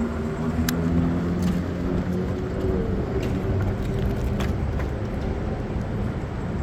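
A moving vehicle's steady low rumble with a motor whine that drifts up and down in pitch, and a few sharp clicks.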